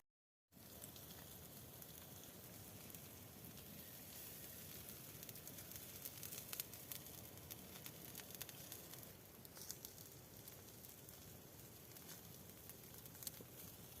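A campfire crackling faintly, a steady low hiss with scattered sharp pops, after a brief cut to silence at the start.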